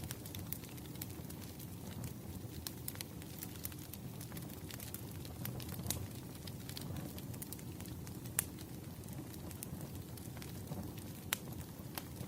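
Wood fire burning, with a steady low rumble of flames under many small crackles and snaps, and a couple of louder pops.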